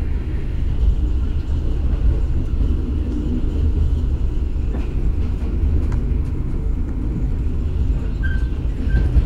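Steady low rumble of a passenger train running at speed, heard from inside a carriage at the window. Two short high squeaks come near the end.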